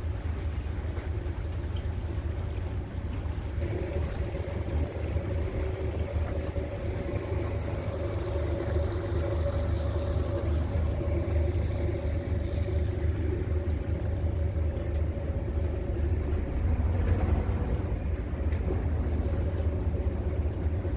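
Cruise boat running steadily, a low engine rumble with a constant hum over it.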